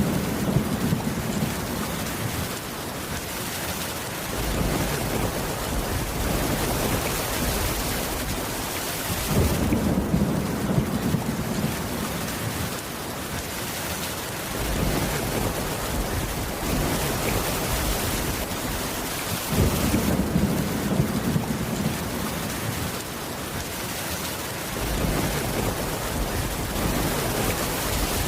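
Steady, heavy rain with low thunder rumbles that swell and fade about every ten seconds.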